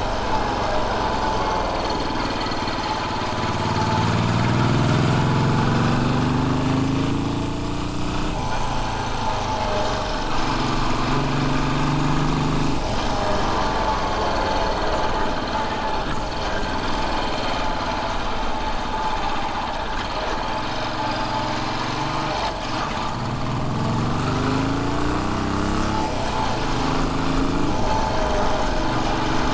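Royal Enfield Bullet 500's single-cylinder four-stroke engine running on the road. It picks up revs twice, its pitch climbing a few seconds in and again near the end, and between those it runs steadily.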